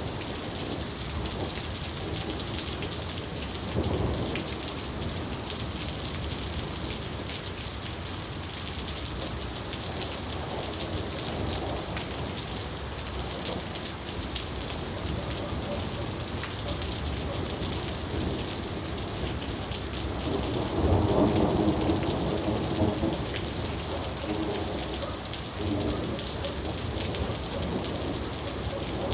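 Steady rain falling and pattering on surfaces, with thunder: a short rumble about four seconds in and a longer, louder rumble about twenty seconds in that dies away over several seconds.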